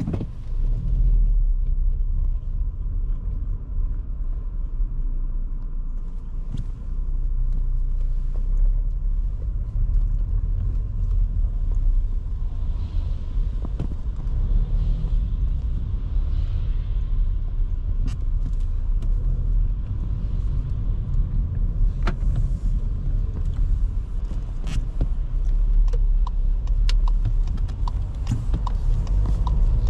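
Low, steady rumble of a 2023 Škoda Kamiq being driven in town: its 1.0 TSI three-cylinder turbo petrol engine and tyre and road noise. Occasional sharp clicks in the second half.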